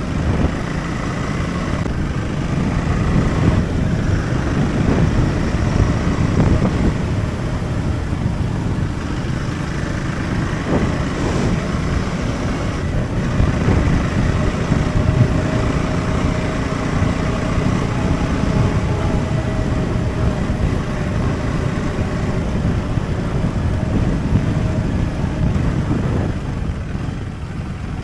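Husqvarna Svartpilen 401's single-cylinder engine running steadily on the move, under a dense low rumble of road noise.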